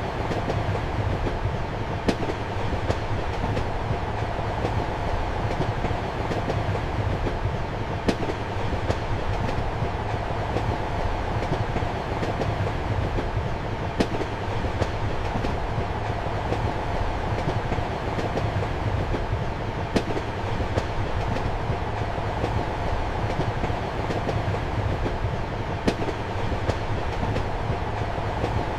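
Passenger train running steadily, heard as a constant low rumble and hum. Sharp wheel clacks over rail joints cut through it, the loudest coming about every six seconds.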